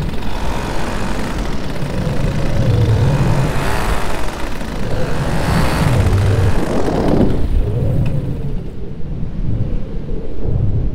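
Minari F1 paramotor engine and propeller running, its pitch wavering up and down with the throttle, then dropping away about seven and a half seconds in, leaving a low rumble of wind on the microphone.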